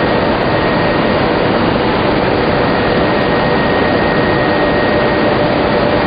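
Industrial machinery of a tobacco-lamina flash-dryer line running: a loud, steady blower-like rush with a thin, steady high whine and a fainter middle tone.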